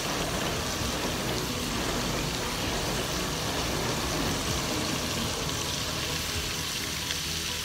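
Stir-fry sizzling steadily in a frying pan as julienned carrots and snow peas are dropped in.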